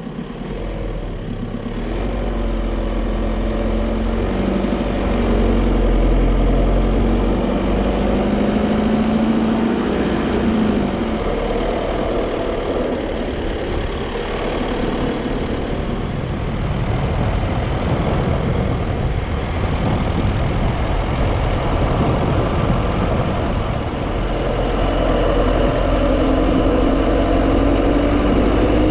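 Car engine running while driving, its pitch rising and falling with speed over a continuous low rumble; it fades in over the first couple of seconds.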